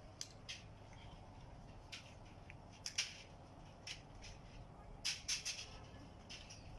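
Faint, irregular clicks and light knocks over a low steady background rumble, with the loudest clicks about three seconds in and a quick cluster near the five-second mark.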